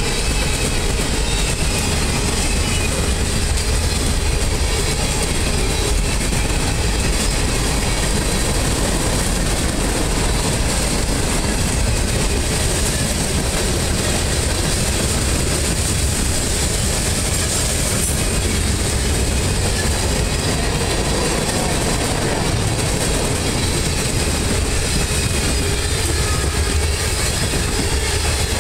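A long freight train's boxcars and hoppers rolling steadily past on steel wheels and rails.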